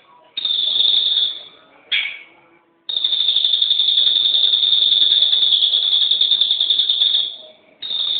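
Songbird singing long, rapid, high-pitched trills held at one steady pitch: a short burst, then a long trill of about four seconds, then another short burst near the end. A brief lower falling note comes about two seconds in.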